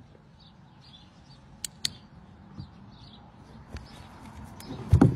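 Faint birds chirping in the background, with two sharp clicks about two seconds in and a low thump near the end.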